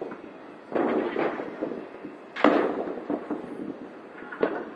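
New Year's Eve fireworks and firecrackers going off: a cluster of bangs about a second in, a sharper, louder bang about halfway through, and another near the end, each trailing off.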